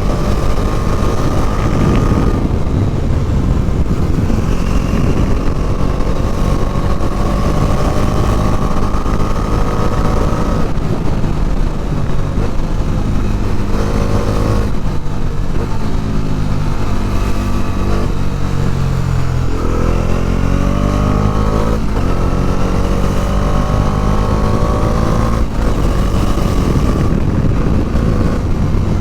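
Bajaj Dominar 400's single-cylinder engine being ridden hard, its revs rising and falling through the gears. The pitch falls off in the middle, then climbs sharply on hard acceleration about two-thirds of the way through.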